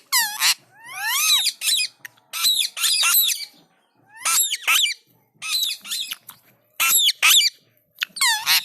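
Pet parrots screeching, a run of short, shrill calls that arch up and down in pitch, repeated every second or so with brief gaps.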